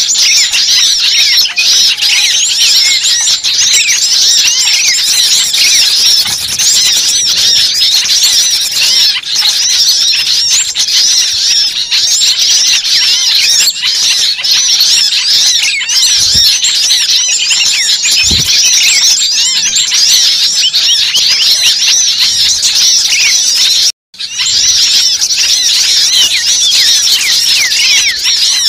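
Dense, loud chorus of many small birds chirping and trilling rapidly and excitedly, a noisy bird-lure (pikat) recording of the kind played to draw small birds in. The sound cuts out for a split second about 24 seconds in.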